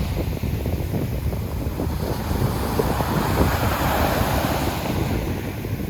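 Sea waves breaking and washing up the shore, with wind buffeting the microphone. One wave's wash swells up about midway.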